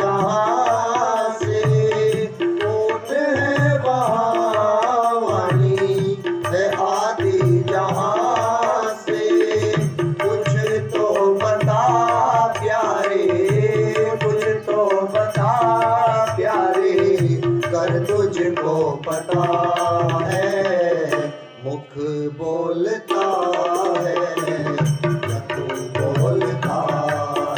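Instrumental interlude of Hindi devotional bhajan music: tabla keeping a steady rhythm under a melodic instrument line. The music thins out briefly about three-quarters of the way through.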